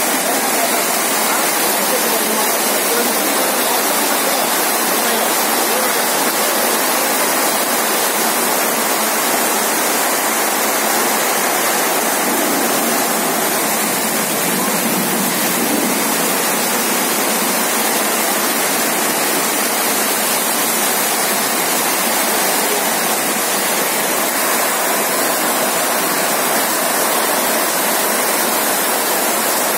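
Heavy rain pouring down steadily, drumming on a corrugated metal carport roof overhead, a dense, even rush that neither rises nor falls.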